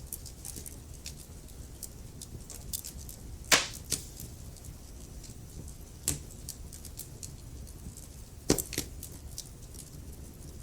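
Wood fire in a fireplace crackling: a steady scatter of small snaps and ticks over a low rumble, with three louder pops, two to three seconds apart.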